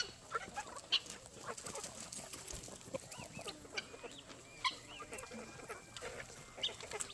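A flock of chickens clucking and chirping softly, scattered short calls and small pecking clicks with no single loud call.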